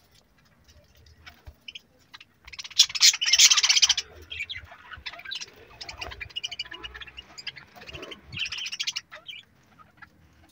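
Budgerigars chattering and squawking: a loud harsh burst of calls about two and a half seconds in, then softer scattered chirps and warbling, and another burst of calls about eight seconds in.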